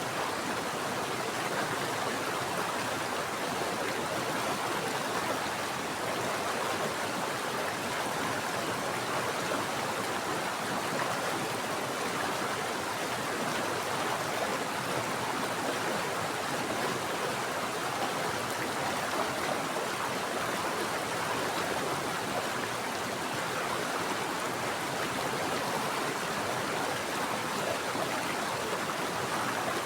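Steady rush of a flowing mountain stream, running water with an even, unbroken hiss.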